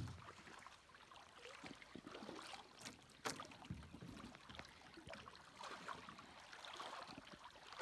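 Faint splashing and sloshing of shallow river water with a few light knocks, one sharper click about three seconds in: a canoe being walked by hand through rocky shallows.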